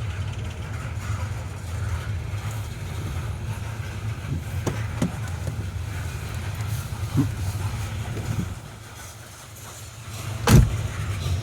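Coal train cars rolling past on the rails: a steady low rumble with a few scattered clanks. Just before the end the rumble drops away for about a second and a half, then a single loud bang.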